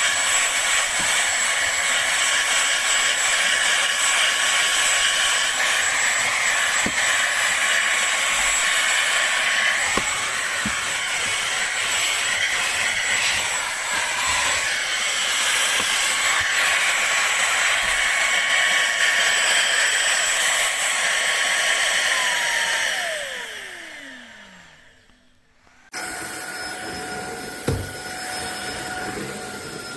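Cordless stick vacuum cleaner running steadily, its motor giving a high whine over the airflow noise. Near the end it is switched off, and the whine falls away as the motor spins down. A few seconds later a quieter steady hum starts abruptly.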